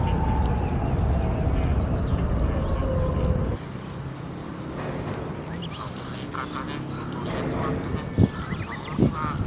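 Outdoor riverbank ambience with a steady high insect buzz. A low rushing noise fills the first few seconds and cuts off suddenly, and a few clicks and knocks come near the end.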